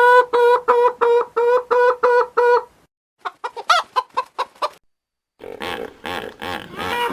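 Chicken calling in a run of repeated, evenly pitched clucks, about three a second, for the first couple of seconds. After a short silence come a burst of quick higher calls and then a rougher, pulsed animal sound near the end, from different animals cut in one after another.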